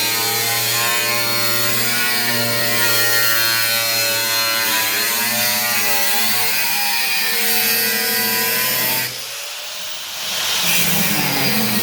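A power cutting tool slicing through the rusted steel of a car's rear wheel arch, its motor pitch wavering as it meets the metal. About nine seconds in it eases off and goes quieter for a moment, then bites into the steel again.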